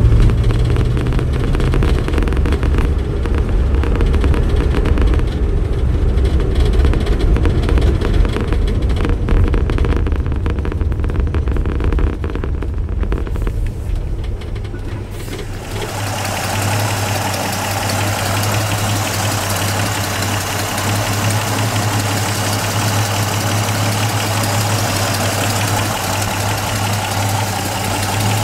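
Vauxhall PC Cresta's six-cylinder engine and road noise heard from inside the cabin while driving slowly, low and even. About halfway through it changes suddenly to the same engine idling steadily under the open bonnet, a steady low hum with hiss on top.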